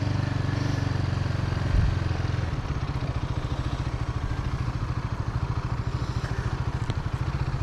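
Royal Enfield Guerrilla 450's single-cylinder engine running. It holds a steady note for about the first two and a half seconds, then settles into a slower, even beat of separate firing pulses.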